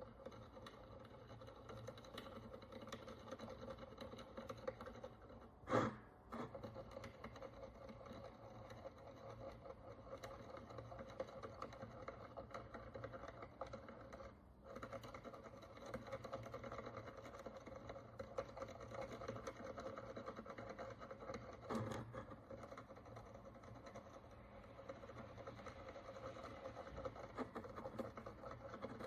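A fine steel needle picking and scraping hardened dirt and crust off a bronze Roman coin. It makes faint, continuous scratching with many small ticks over a low steady hum, and a louder tap about six seconds in and again near twenty-two seconds.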